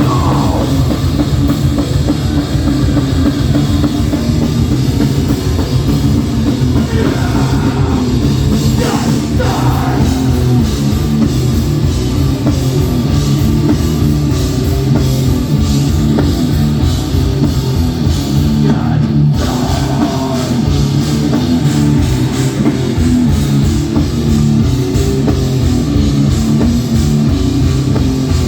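Live hardcore band playing loud: distorted guitars, bass and drum kit, steady throughout, with a voice coming through now and then.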